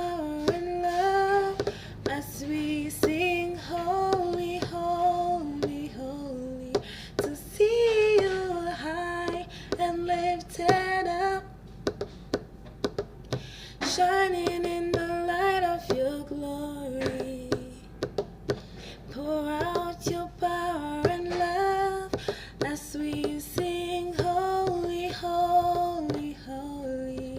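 A woman singing a slow worship melody with long held notes, breaking off briefly about twelve seconds in, with sharp clicks scattered through.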